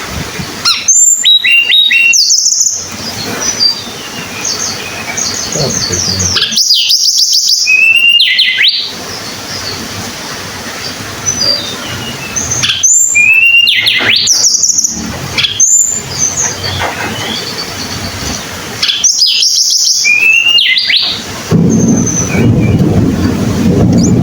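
Tledekan gunung (white-browed shortwing) singing: four loud bursts of quick, whistled warbling phrases that sweep up and down, a few seconds apart, with fainter chirps between them.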